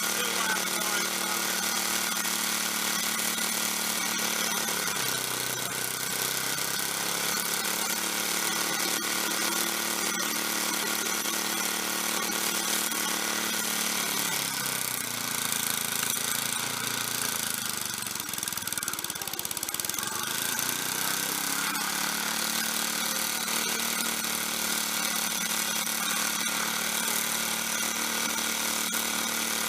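Snowblower engine running steadily. Its speed sags briefly about five seconds in, then drops further for several seconds in the middle and climbs back up.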